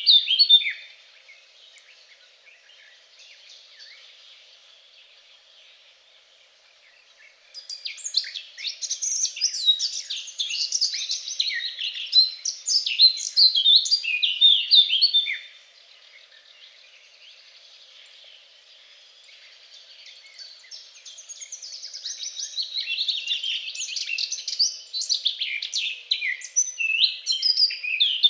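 A songbird singing long, fast phrases of rapid high twittering notes. There are two phrases of several seconds each, with fainter bird calls in the quieter gaps between.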